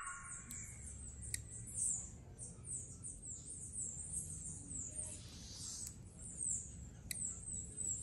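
High, thin chirps of small birds, repeated every fraction of a second, with a few faint clicks.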